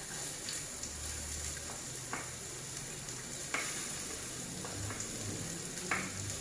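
Minced garlic and chili sizzling in hot oil in a pan, with a few short scrapes of a spatula as they are stir-fried until fragrant.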